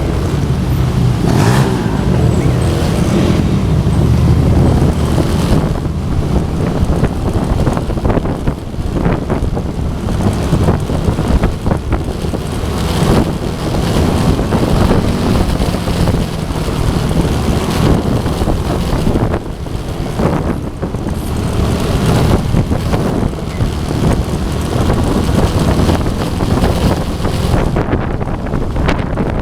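Motorcycle engines running, with heavy wind buffeting the microphone.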